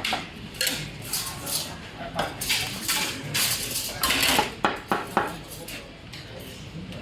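Dishes and cutlery clattering and scraping as plates are dished up at a restaurant serving counter, with a series of short clinks and scrapes.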